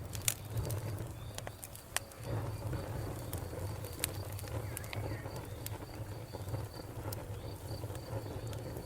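Wood fire burning in a fireplace: a low steady rumble of flames with scattered crackles and sharp pops, the loudest pop a fraction of a second in.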